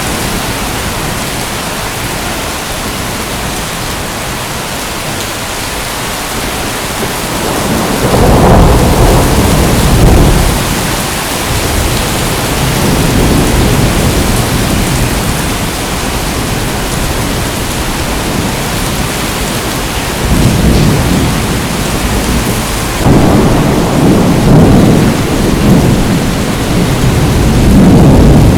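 Steady rain hissing, with rolls of thunder rumbling low over it several times, the first about eight seconds in and more near the end.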